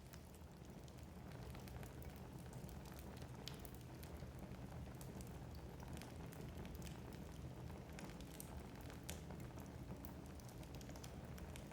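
Wood fire burning in a fireplace: faint, steady low rumble of the flames with many scattered small crackles and pops from the burning logs.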